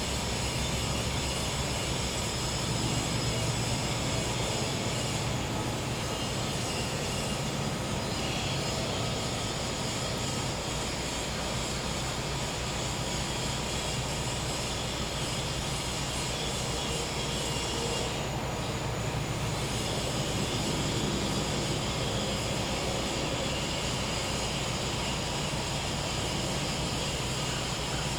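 Gas-powered generator running with a steady, noisy hum, while crickets and cicadas keep up a steady high chorus. A couple of brief high calls come in now and then.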